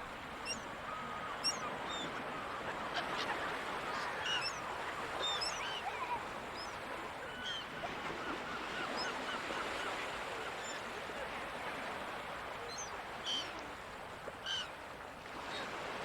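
Gulls calling, many short calls scattered throughout, with louder ones around 4 to 6 seconds in and near the end, over a steady rushing wash of surf.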